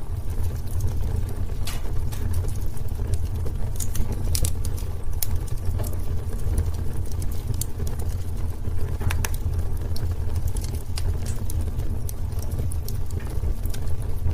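Wood fire in a fireplace crackling, with frequent sharp pops and snaps over a steady low rumble; a few louder pops come about 2, 4 and 9 seconds in.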